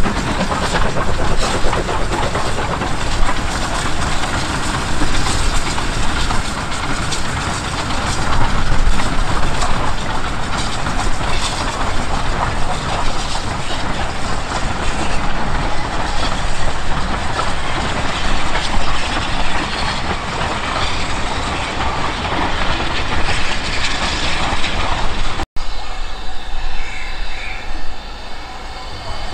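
Heritage railway train running along the line: a loud, steady noise of the train in motion. About 25 seconds in it breaks off abruptly and a quieter passage follows.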